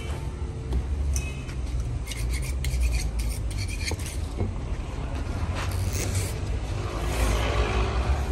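Irregular scraping and rubbing strokes over a steady low rumble, denser about seven seconds in.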